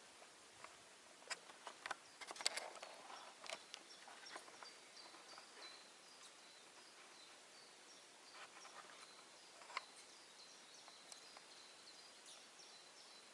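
Near-silent outdoor ambience: a few faint clicks and snaps in the first few seconds, then faint, short, high chirps repeating over and over.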